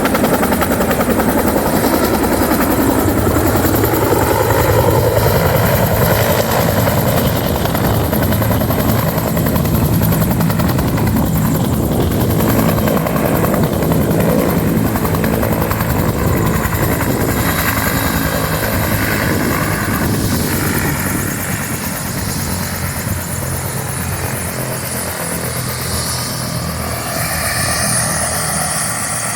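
Cal Fire helicopter running close by, its rotor beating steadily over the engine noise, growing slightly quieter about two-thirds of the way through.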